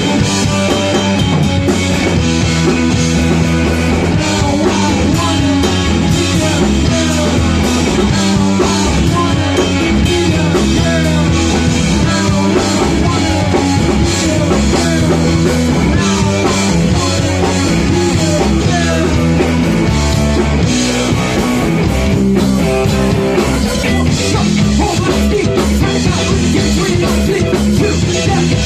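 A rock band playing loudly and without a break: drum kit, guitar and bass together in a fast, driving punk-rock style.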